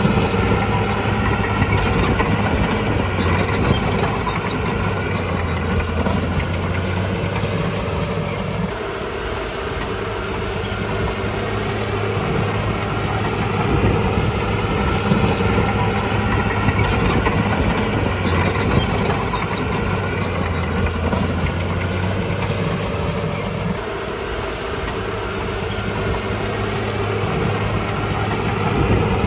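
Crawler bulldozer's diesel engine running steadily, easing off slightly twice, with faint clanks now and then.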